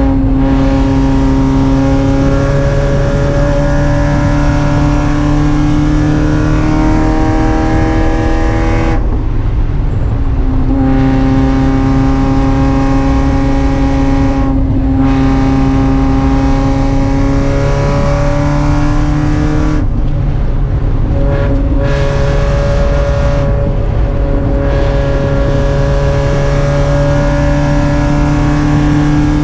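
Spec Miata race car's four-cylinder engine under hard acceleration, its pitch climbing steadily and then dropping at gear changes or throttle lifts about a third of the way in, halfway, and twice more about two-thirds of the way through.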